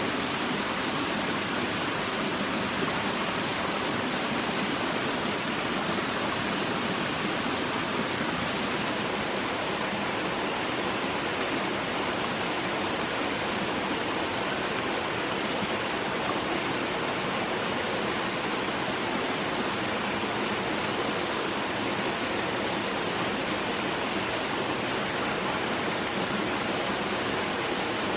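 Steady, even rushing noise that does not change, like falling or running water or a noise generator.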